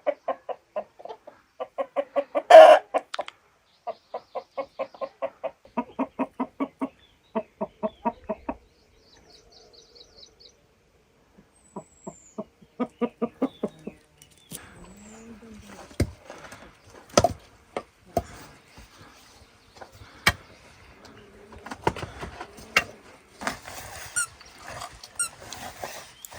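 A chicken clucking in runs of quick, pitched clucks, about six a second, in the first half and again briefly around the middle, with a short high bird trill between. Over the second half come scattered sharp knocks and clicks.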